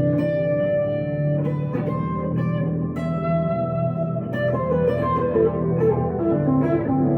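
Electric guitar, a 1962 Gibson Les Paul Custom through a Two-Rock Emerald Pro tube amp, playing a slow melodic line of sustained single notes over lower held notes.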